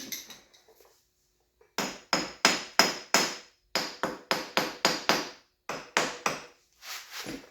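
A hard hammer, not a rubber mallet, tapping a two-stroke dirt bike's cylinder to break it loose from the crankcase. It starts nearly two seconds in: a quick run of about fifteen taps, roughly three a second, each with a short metallic ring.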